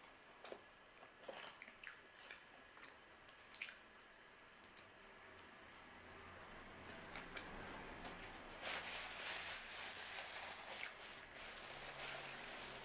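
Faint chewing and mouth clicks of someone eating a slice of slightly charred pizza, then a few seconds of paper napkin rustling in the second half.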